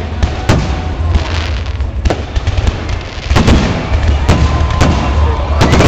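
Fireworks salute: a string of loud shell bursts about a second apart, with crackling between them over a deep rumble.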